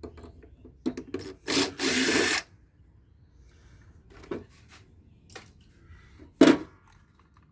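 Dismantling work on a scrap solar inverter: a few clicks, then two short bursts of a power tool about a second and a half in, followed by scattered clicks and a sharp knock near the end.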